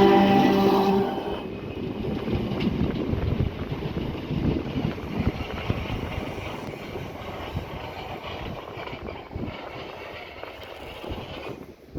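An electric passenger train passing through the station. A steady tone stops about a second in, then the wheels rumble and clatter over the rail joints, fading slowly toward the end.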